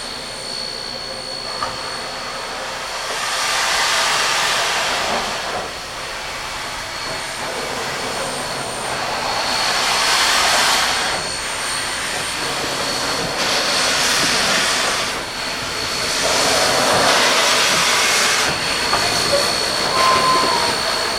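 K-37 steam locomotive letting off steam: four long hisses a few seconds apart over a steady background rush.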